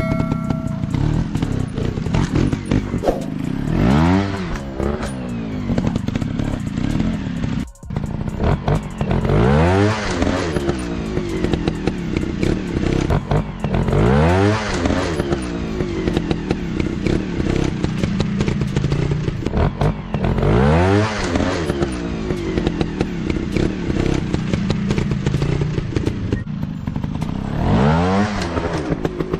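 Trail motorcycle engine running under load, the throttle opened and backed off again and again so the pitch rises and falls about every five to seven seconds. The sound drops out briefly about eight seconds in.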